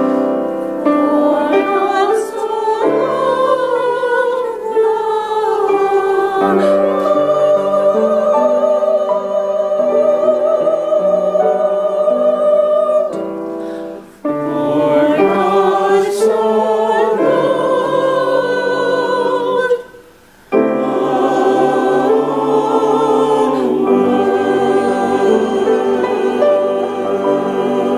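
Church choir singing with sustained, vibrato-laden notes, breaking off briefly twice: about halfway through and about two-thirds through.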